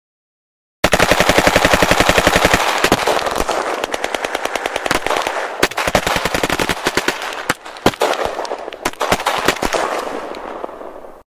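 Electronic machine-gun sound effect from a battery-powered toy gun: a very fast, even rattle of shots that turns into looser, irregular bursts, fades, and cuts off suddenly near the end.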